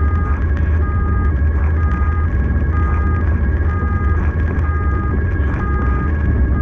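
Rescue vehicle's two-tone siren switching back and forth between a higher and a lower pitch about once a second, over the heavy steady rumble of the vehicle driving.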